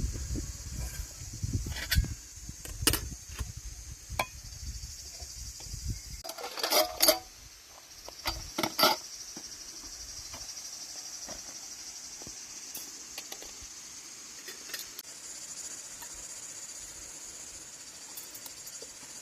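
Insects chirring steadily at a high pitch, with scattered clinks and knocks, the loudest a short clatter about seven seconds in and another about nine seconds in. A low rumble sits underneath for the first six seconds, then drops away.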